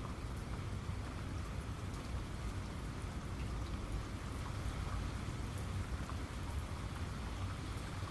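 Steady rainfall, an even hiss with individual drops ticking here and there over a low rumble.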